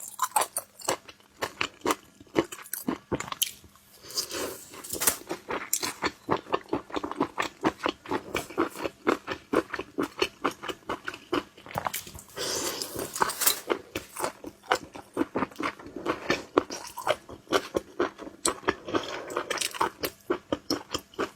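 Chewing of cooked sliced sea snail (conch) meat: a steady run of small wet mouth clicks and smacks, with louder spells of biting about four seconds in and again around twelve seconds.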